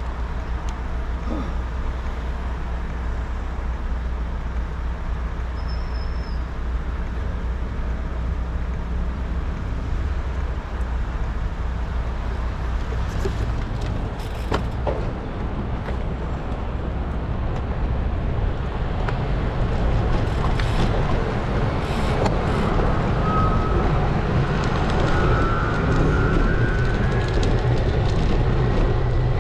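Wind rushing over an action camera's microphone on a moving road bike, mixed with tyre and road noise and street traffic, getting louder past the middle. A few brief clicks stand out.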